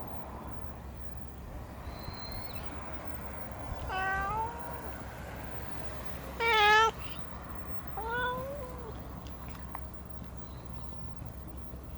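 A domestic cat meowing three times, about two seconds apart; the middle meow is the loudest.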